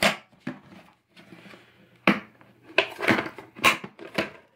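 Handling noise with the vacuum cleaners switched off: about six sharp knocks and clatters of hard objects, spaced irregularly with quiet gaps between them, as the vacuums and their cords are handled.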